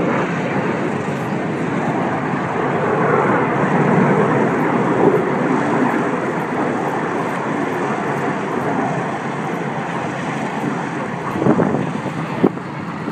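BAE Systems Hawk T1 jets of the Red Arrows flying past, their single Adour turbofan engines making a steady rushing jet noise, with wind buffeting the microphone. A brief knock comes near the end.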